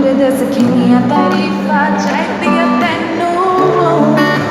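Live song: a voice singing a wavering melody over strummed acoustic guitar chords.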